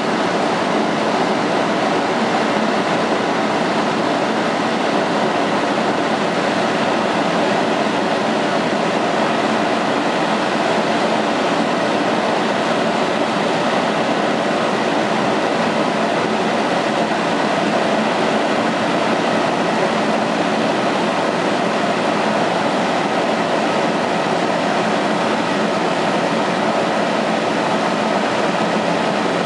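Steady running noise of an NJ Transit commuter train of Comet coaches standing at the platform: an even whir with a faint high whine, unchanging throughout.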